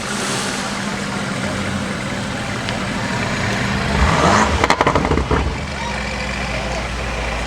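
A car engine running steadily at idle, with a louder stretch of rough, rapid pulsing about four seconds in that lasts roughly a second and a half.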